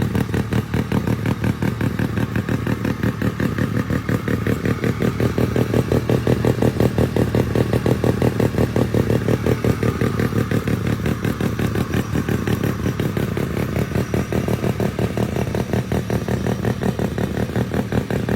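Mini bike's rotary engine running at a steady speed, with a rapid, even pulsing exhaust beat and a slight rise and fall in pitch midway.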